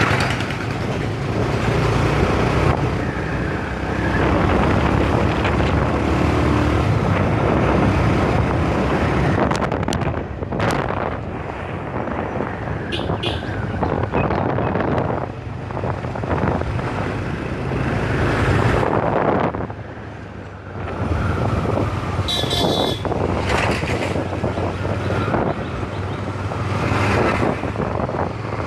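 Motorcycle riding on the road: engine running under steady wind and road noise, with other traffic around. Brief high-pitched tones sound about halfway through and again about two-thirds through.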